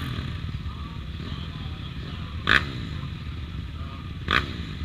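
Small pit bike engine running steadily, with two short, loud, higher-pitched bursts about two seconds apart.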